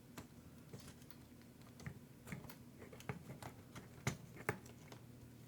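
Irregular small clicks and taps of plastic and metal RC car parts being handled as a hinge pin is worked into the front suspension arm of a Traxxas Sledge, with two sharper knocks about four seconds in. A faint steady hum runs underneath.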